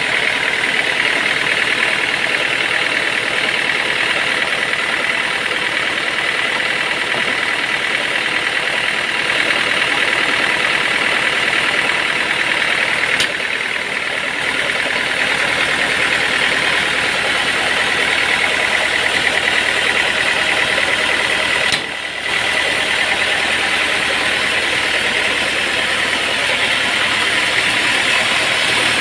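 Sawmill machinery running steadily, an engine-driven noise with a constant high whine. The noise dips briefly twice, about 13 and 22 seconds in.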